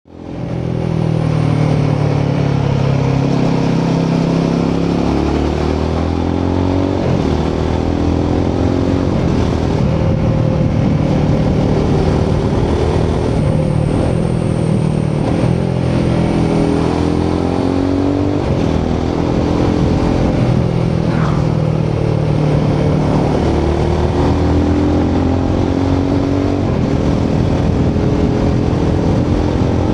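Royal Enfield Himalayan 450's 452cc Sherpa single-cylinder engine under way, heard from the rider's position. The revs climb and drop back repeatedly as the bike accelerates and changes gear.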